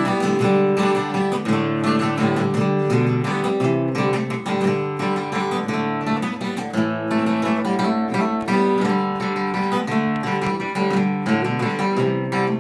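Acoustic guitar strummed in chords, an instrumental passage with no singing.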